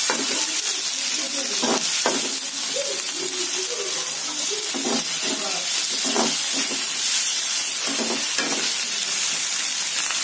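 Sliced onions and tomato pieces sizzling in melted butter in a metal pan, with a spatula scraping and stirring them every second or two.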